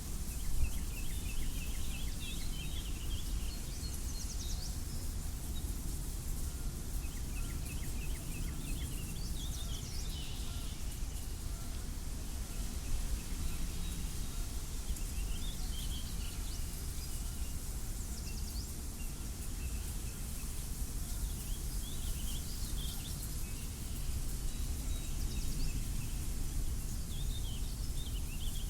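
Wind blowing across open fields and the microphone as a steady low rumble, with small birds chirping and twittering in short bursts every few seconds.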